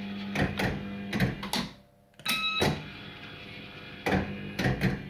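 Bell Fruit Firecracker fruit machine playing a spin: a run of sharp mechanical clacks from the reels and buttons, over a steady electrical hum from the machine.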